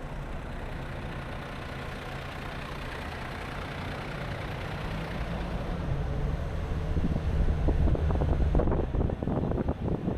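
A car driving along, its engine and tyre noise making a steady low hum. Over the last few seconds it grows louder as wind starts buffeting the microphone.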